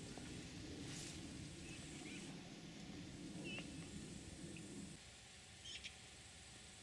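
Faint, short bird chirps, a few scattered calls, over a low steady background rumble that stops about five seconds in.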